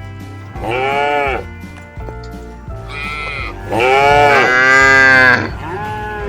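Cattle mooing: several calls rising and falling in pitch, one about a second in and two overlapping, louder ones about four to five seconds in.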